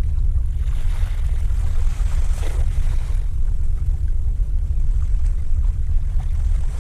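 Steady low rumble of wind on the microphone at the shoreline, with a rushing wash of water from about half a second in that fades out about three seconds in.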